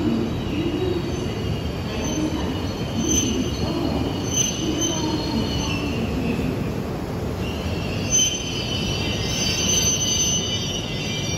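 An E5 series Shinkansen train rolls slowly into the station and brakes nearly to a stop, with a steady low rumble. High-pitched squeals come and go, and grow stronger about eight seconds in as it slows to a halt.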